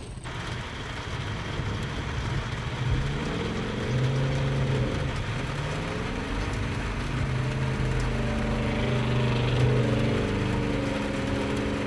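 Truck engine revving, its pitch rising and falling over and over over a steady hiss.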